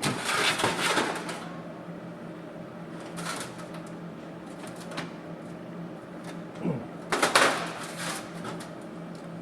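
Welder crackling in short bursts as thin sheet-steel sill seams are stitch-welded between tack welds. There is a longer burst at the start, brief ones about three and five seconds in, and the loudest about seven seconds in, over a steady low hum.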